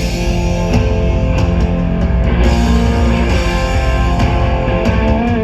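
Live rock band playing an instrumental passage, guitars to the fore over bass and drums. The full low end of the band comes in right at the start.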